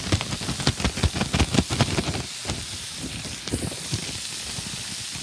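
Shrimp frying in oil in a cast-iron skillet: a dense run of sharp crackling pops over the first two seconds, settling into a steady sizzle.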